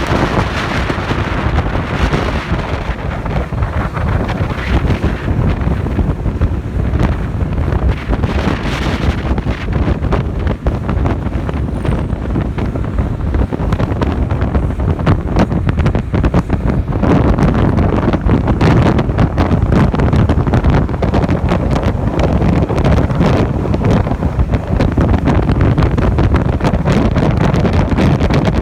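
Wind buffeting the microphone of a moving motorcycle, with engine and road noise beneath it; the rush gets louder a little past halfway through.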